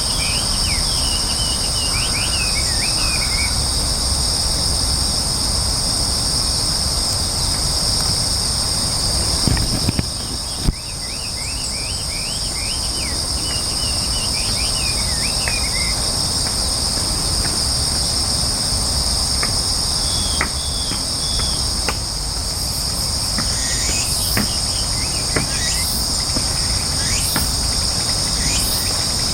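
Insects shrilling in a steady, continuous high drone. Over it come short runs of quick chirping bird notes and a few sharp ticks.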